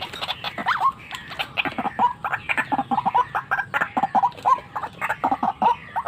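White-breasted waterhen calling: a continuous run of short, harsh repeated notes, several a second.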